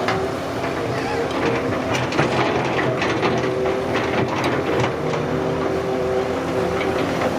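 Excavator's diesel engine running steadily, with scattered metallic clanks and knocks from the machine at work.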